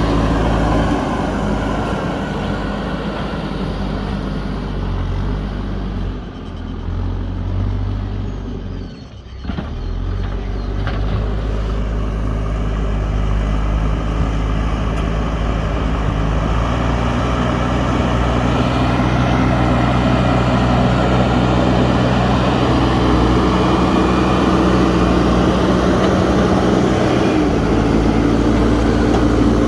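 Diesel engine of a JCB 3DX backhoe loader running under working load. It dips briefly about nine seconds in, then holds steady at higher revs.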